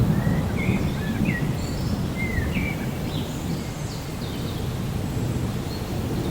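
Rainforest ambience: a low rumble of distant thunder and rain, easing slightly after the start, with birds giving several short chirping calls in the first half.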